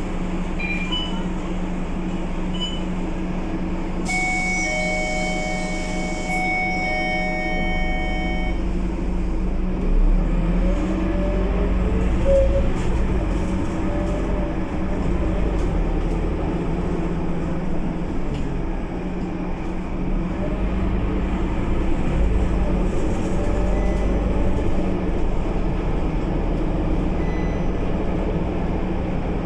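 Scania K230UB city bus with its Euro V five-cylinder diesel idling with a steady hum. An electronic warning tone sounds for about four seconds, then the engine note deepens and rises as the bus pulls away and accelerates.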